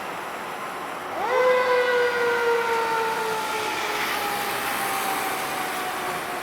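Fire engine siren sounding over passing traffic noise: about a second in, the tone jumps up quickly in pitch and then winds slowly down over several seconds, like a mechanical siren coasting down.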